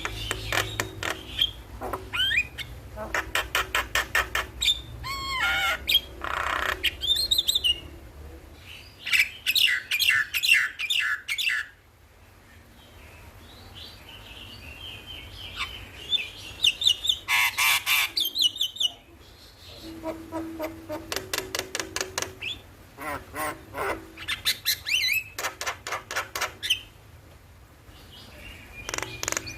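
Javan mynas singing: bursts of fast repeated chattering notes and clicks mixed with short whistled glides, broken by brief pauses.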